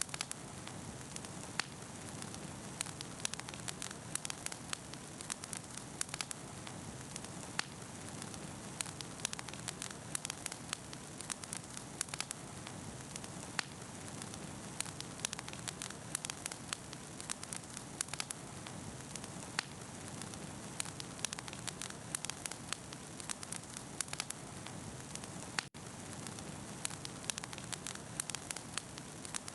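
Wood campfire burning, with frequent sharp crackles and pops over a steady hiss.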